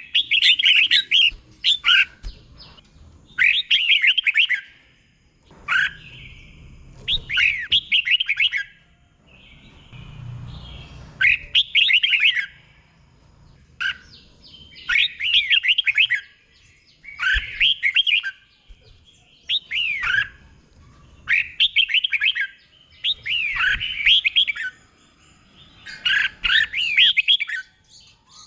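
Red-whiskered bulbul singing: short, bright warbled phrases about a second long, repeated every couple of seconds with brief pauses between them.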